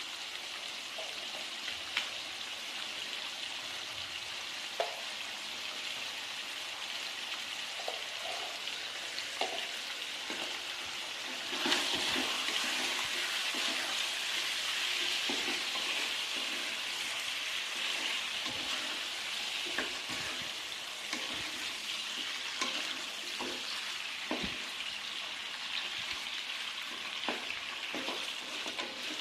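Food sizzling in a frying pan, with the scrapes and taps of a spatula stirring it against the pan. The sizzle gets suddenly louder about twelve seconds in.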